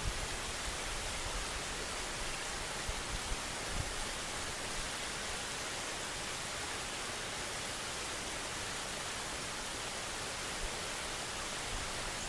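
Steady even rushing noise of the outdoors, with light gusts of wind buffeting the microphone now and then, mostly in the first few seconds.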